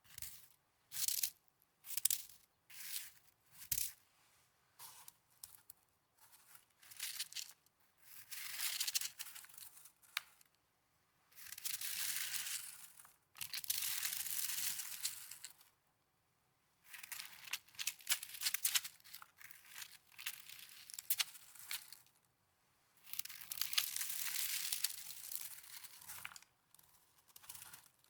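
Snow crunching and crackling close to the microphone: short crunches about once a second at first, then longer spells of steady crunching from the middle on.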